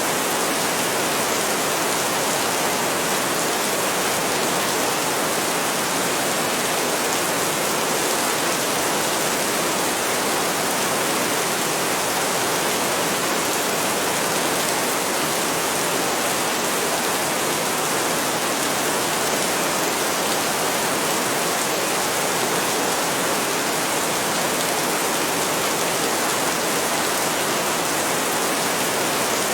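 Heavy rain falling in a steady, dense hiss, with no thunder in this stretch.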